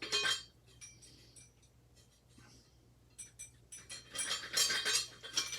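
Metal ceiling-fan parts and hand tools clinking, rattling and scraping as they are handled: a short rustle at the start, scattered clicks, then a busier run of clinks and rattles over the last couple of seconds.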